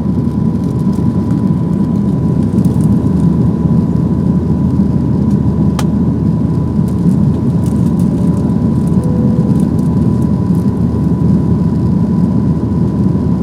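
Steady, loud engine and airflow noise inside the cabin of a Boeing 737-800, its CFM56-7B turbofans at high power. A low rumble carries a thin steady whine on top.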